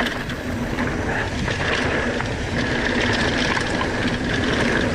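Mountain bike rolling fast downhill: steady rush of wind on the helmet-mounted camera microphone and tires on packed dirt, with a steady high buzz and light rattles and clicks from the bike.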